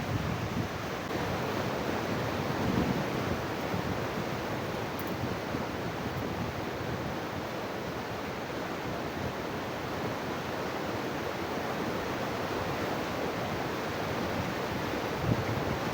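Steady rush of a mountain stream, with wind buffeting the microphone a few times.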